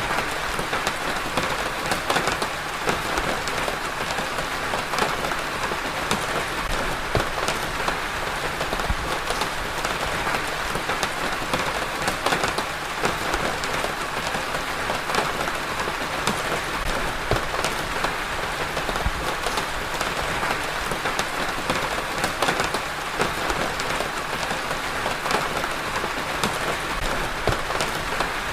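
Steady rain falling, with dense, irregular drop impacts pattering on a surface.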